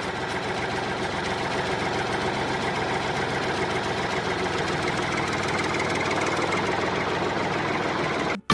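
Engine idling steadily, then cutting off abruptly near the end.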